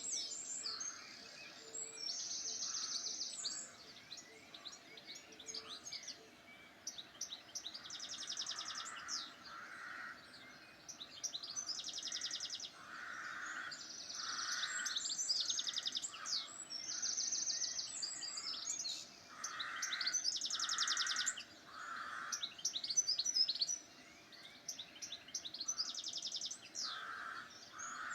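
Wild birds singing: high, fast trilled phrases repeated every second or two, with lower notes in between.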